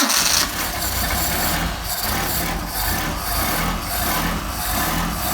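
Mercedes-Benz 190SL's four-cylinder engine with twin Solex carburettors catching on a cold start with the choke pulled. The starter's cranking stops about half a second in, and the engine then runs steadily with a rasping hiss over it.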